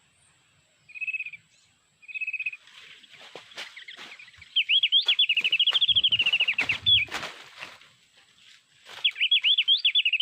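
White-eye (pleci) song: two short even trills in the first few seconds, then a long fast run of rising-and-falling chirps about halfway through and another run near the end. Sharp clicks and rustles come between the phrases.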